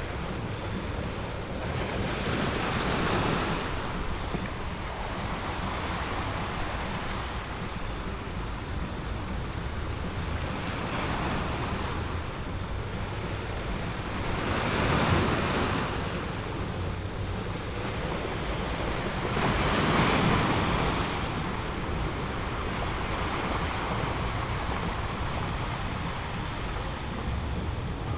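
Ocean surf: a steady rushing hiss with waves swelling and washing in every few seconds, two of them louder about halfway through and again about two-thirds of the way through.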